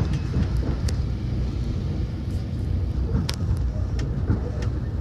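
Train in motion: a steady low rumble of the wheels and running gear on the rails, with scattered short clicks and knocks, the sharpest about three seconds in.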